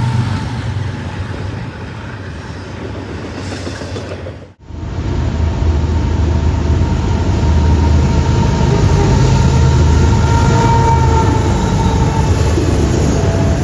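Train running on the rails: a steady rumble with a thin high tone over it. The sound cuts off abruptly about four and a half seconds in and resumes louder.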